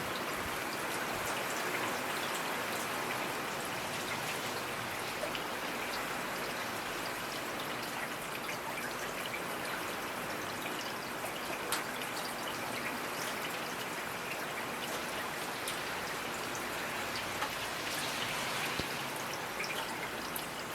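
Steady rainfall, with individual drops ticking sharply here and there over the even patter.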